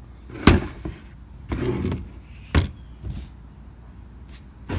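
Crickets chirping steadily in the background, with a sharp knock about half a second in, a shorter rustle a second later and a second knock around two and a half seconds.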